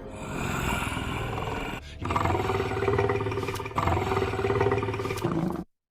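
Dragon roar sound effect: a rough, growling creature roar in three long phrases that cuts off abruptly near the end.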